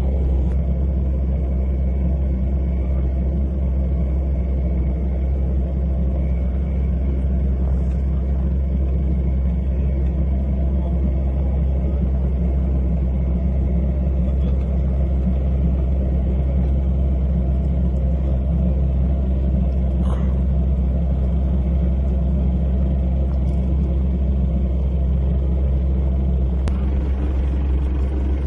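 A large engine running steadily at constant speed: a deep, even rumble that never changes, with a few faint clicks.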